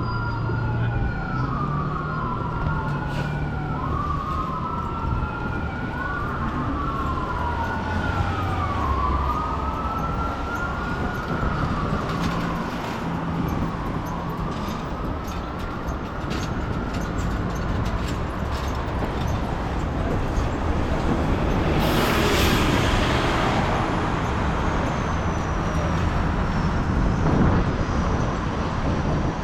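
Emergency vehicle siren wailing up and down, about one sweep every second and a half, fading away about twelve seconds in, over steady city traffic noise. A short hiss comes about two-thirds of the way through.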